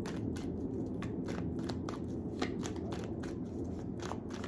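Tarot cards being shuffled and handled in the hands: a run of quick, irregular card snaps and clicks over a steady low hum.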